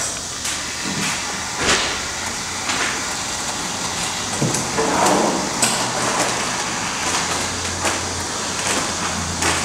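Urethane spray foam gun dispensing foam into gaps in wall insulation: a steady hiss broken by several sharp clicks and knocks.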